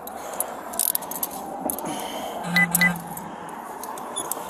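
Steady street traffic noise with the jingling and clicking of a police officer's duty gear close to the body-worn camera, and two short beeps about two and a half seconds in.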